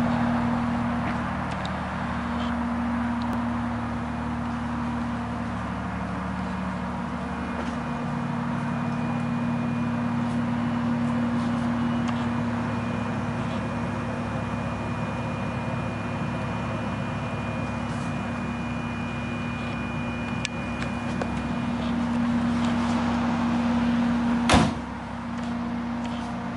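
Toyota 2JZ-GTE twin-turbo inline-six idling steadily with the hood open. A single sharp knock comes near the end.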